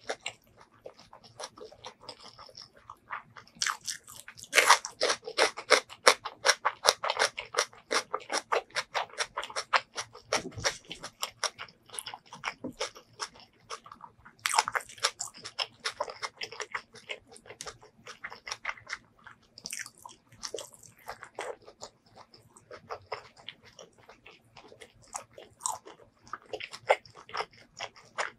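Close-miked eating: chewing and biting with rapid wet clicking mouth sounds. The eating comes in two long spells, and the second starts about halfway through as a piece of spicy chicken gizzard is bitten into.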